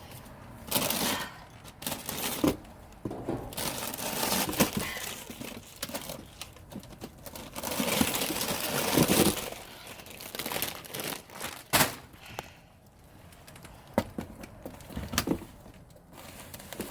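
Plastic packaging and bags crinkling and rustling as someone rummages through dumpster contents, with a few sharp knocks in between.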